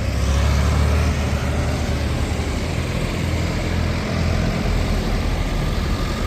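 Tractors and cars in a slow parade passing close by, a steady low engine rumble that is loudest in the first second or so.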